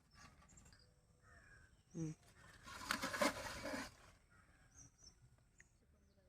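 Quiet outdoor field ambience with faint, scattered bird chirps. There is a brief vocal sound about two seconds in and a rustle lasting about a second just after it.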